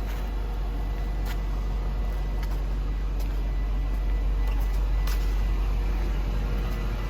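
1997 Mercedes-Benz SL500's 5.0-litre V8 idling steadily after a cold start, a low even rumble that swells slightly partway through.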